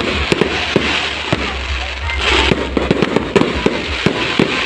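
Fireworks going off: many sharp bangs and pops in quick, irregular succession over a steady low rumble, with a hissing crackle a little over two seconds in.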